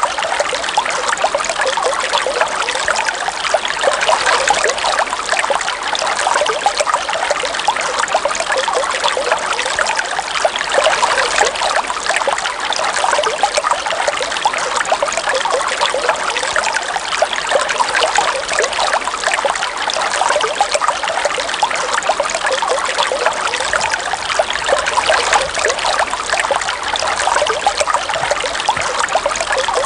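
River water trickling and gurgling steadily, a dense stream of small splashes with no pauses.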